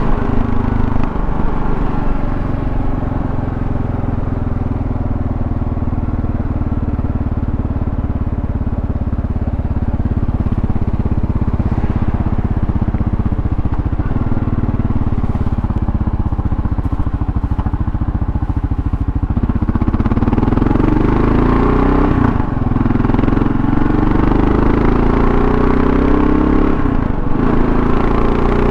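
Kawasaki KLR650's single-cylinder engine under way with wind and road noise: it cruises steadily, then from about two-thirds of the way in it accelerates with rising pitch, with two brief breaks where the rider shifts up a gear.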